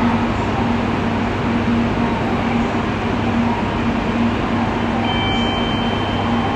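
Tokaido Shinkansen train pulling away from the platform: a steady rumble and hum under station noise. Near the end, a faint high two-note electronic tone joins in.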